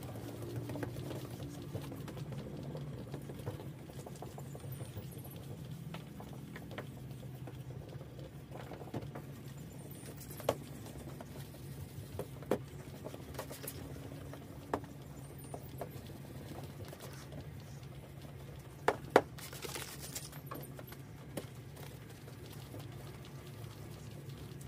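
Wet sanding of a plastic headlight lens with a 3000-grit finishing sanding disc: a steady light scratchy rubbing, with a few sharp clicks along the way.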